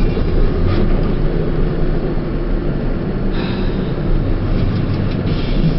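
Truck engine running steadily with road noise, heard from inside the cab while driving: a constant low drone with more hiss from about three seconds in.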